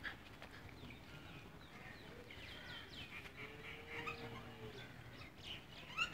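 Small birds chirping faintly in quick, short notes, with one longer, lower, drawn-out call about three and a half seconds in.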